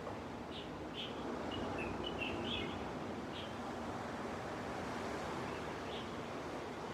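Gentle sea waves washing on a beach as a steady hiss, with small birds chirping in short high calls, a cluster of them in the first half and a couple more near the end.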